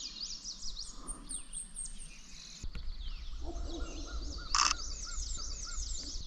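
Several songbirds singing over one another in a spring chorus, with high, quick repeated phrases throughout. A short, harsh, louder call cuts in about four and a half seconds in, over a low background rumble.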